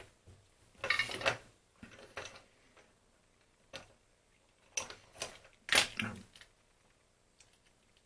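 Clicks, taps and short scrapes of small plastic and metal parts being handled during a phone repair, in several brief clusters with the busiest run about five to six seconds in.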